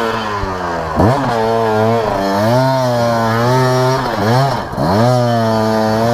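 Off-road dirt bike engine held at high revs under load, the throttle briefly chopped and reopened about a second in and twice more around the four-second mark, the pitch dropping and climbing back each time.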